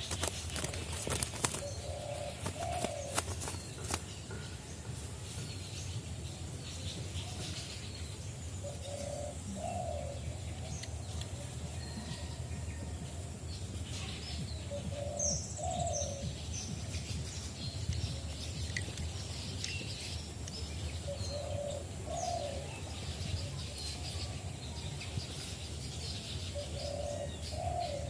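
Dove cooing, a short low two-part coo repeated about every six seconds, with small birds chirping higher up. There are a few sharp rustles in the first second or so.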